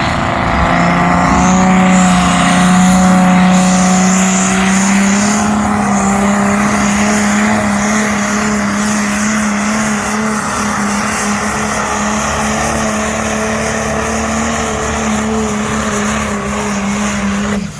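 Modified pulling tractor's engine at full throttle dragging the weight sledge, loud. Its pitch climbs over the first two seconds, then holds steady, and the sound cuts off suddenly at the end.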